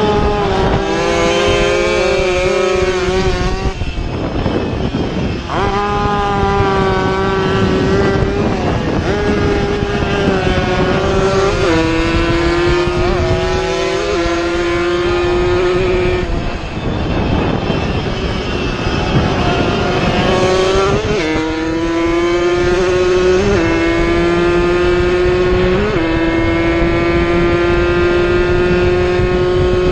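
Two-stroke racing motorcycle engines running at high revs, loud. The pitch climbs steadily and drops sharply several times as the riders change gear.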